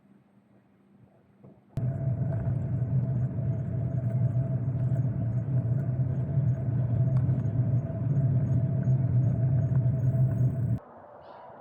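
A steady low rumble with a constant hum over it, starting suddenly about two seconds in and cutting off abruptly just before the end.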